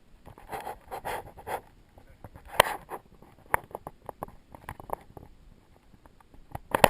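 Irregular sharp clicks and knocks with a few short bouts of rustling, and a loud cluster of clicks near the end.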